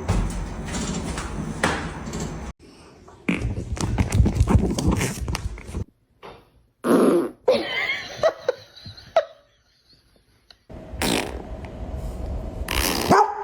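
A dog breaking wind: raspy fart noises in several separate stretches with short gaps between them.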